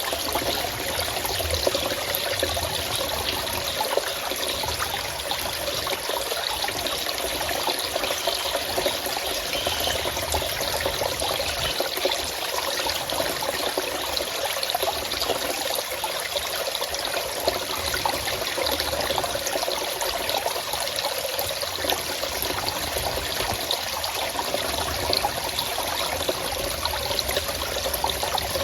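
Forest stream running and trickling steadily, a continuous rush of water with fine splashing detail.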